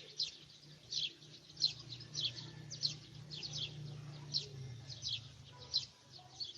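A bird chirping repeatedly, short high calls about two a second, over a faint low steady hum.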